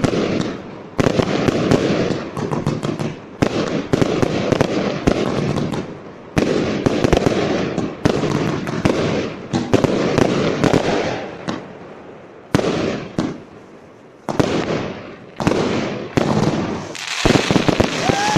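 Fireworks display going off in rapid salvos: clusters of sharp bangs with crackling between them, separated by short lulls, building to a dense crackle near the end.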